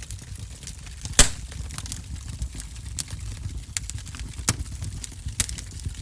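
Fire in a fireplace crackling, with irregular sharp pops over a low steady rumble. The loudest pop comes about a second in.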